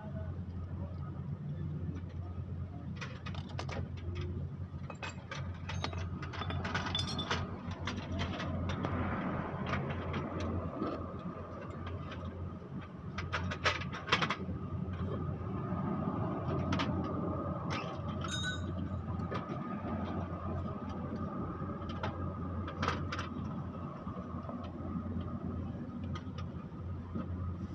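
A spinning car brake disc being resurfaced, with irregular scraping and clicking over a steady machine hum and a steady high tone.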